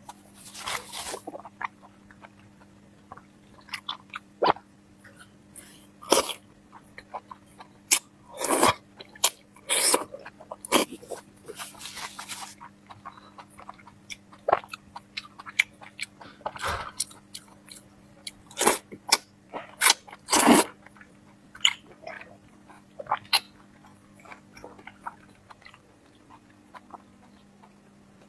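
Close-up eating sounds: irregular crunching, biting and chewing of food, with sharp loud bites scattered among quieter chewing.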